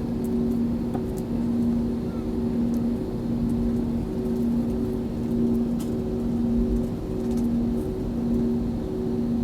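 Steady hum inside an Airbus A320 cabin: engine and air-conditioning noise with two low droning tones over a constant low rumble.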